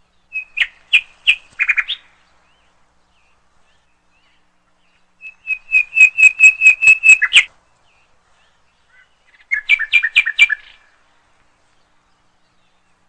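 A small bird chirping in three quick bursts of sharp, rapidly repeated notes: one starting just after the beginning, one in the middle and one about three-quarters of the way through.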